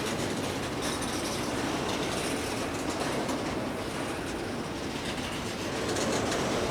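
CSX freight train's cars rolling past on the rails: a steady rolling noise of wheels on track.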